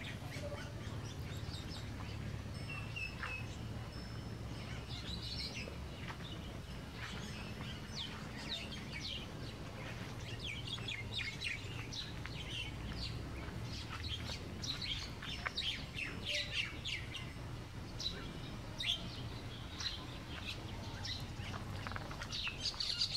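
Birds chirping and calling: many short, high chirps and a few brief whistled notes scattered throughout, over a low, steady background rumble.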